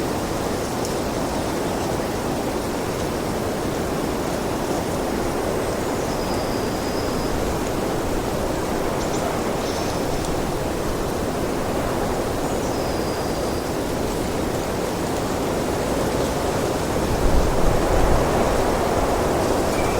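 Wind blowing steadily, a continuous rushing hiss, with a few faint high chirps. About 17 seconds in a gust swells briefly with a low rumble.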